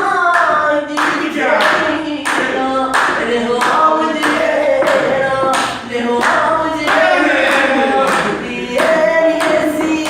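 Singing of a folk song, with the voice holding and bending long notes, over hand-clapping that keeps the beat with sharp claps about once or twice a second.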